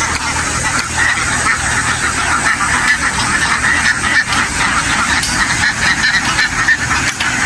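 A huge flock of domestic ducks quacking all at once in a dense, unbroken chatter. A steady low engine drone runs underneath.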